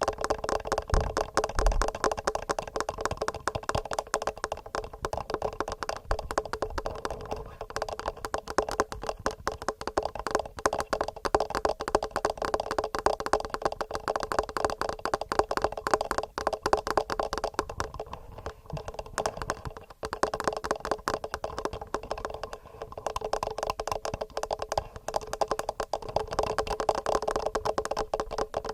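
Fingernails tapping quickly and regularly on a TASCAM handheld recorder's built-in microphones, a dense run of clicks that never breaks and rings with a hollow resonance.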